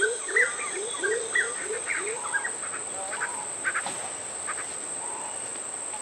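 Rainforest bird giving a rapid series of short, rising, quacking calls, about three a second, that stops about two seconds in, followed by a few scattered clicks and faint calls. A steady high-pitched insect drone runs underneath.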